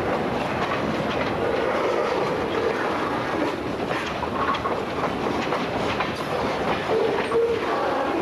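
Freight train cars rolling past at steady speed, the wheels clicking over rail joints, with brief faint squeals from the wheels.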